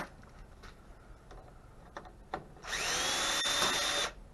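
Impact gun running for about a second and a half to back out a screw, its motor whine rising as it spins up and then holding steady before it stops suddenly. A few faint clicks of handling come before it.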